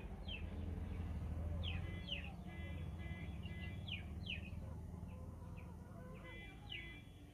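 Birds chirping in the background: repeated short chirps that sweep downward in pitch, coming in small clusters, over a low steady hum.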